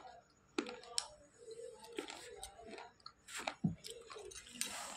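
A slate pencil being bitten and chewed close to the microphone, making several sharp crunches.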